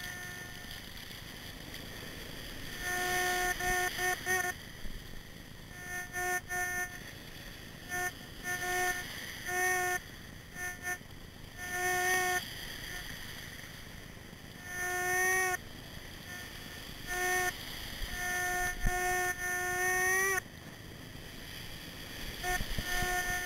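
Minelab Excalibur metal detector's buzzing audio tone sounding in repeated short beeps of one pitch, some held longer and a few bending upward in pitch as they cut off, over a steady hiss.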